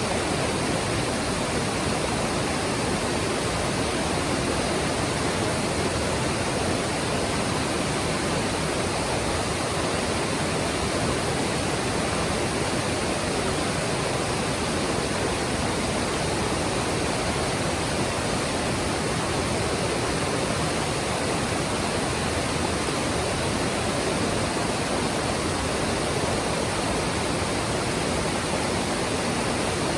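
Mountain stream flowing: a steady, even rush of water over rocks.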